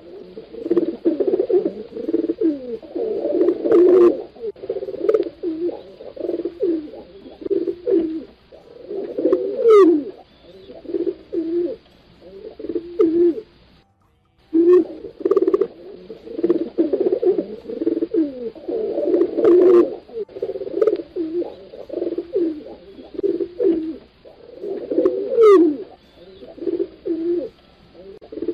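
Several domestic pigeons cooing at once, in overlapping low, throaty coos. The calls break off briefly about halfway through, then the same sequence starts again.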